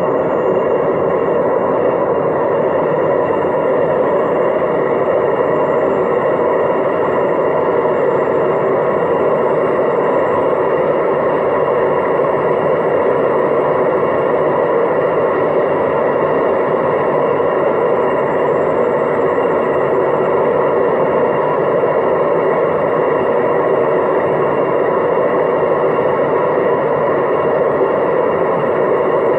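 Hoover DYNS 6105 DZ front-loading washing machine on a spin-only cycle, its drum spinning steadily at about 800 rpm with an even loud whirring rush and a faint high motor whine. The machine's drum bearings are worn.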